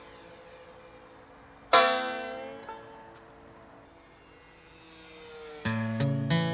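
Acoustic guitar music. A chord strummed about two seconds in rings out slowly, and new chords with low bass notes come in near the end.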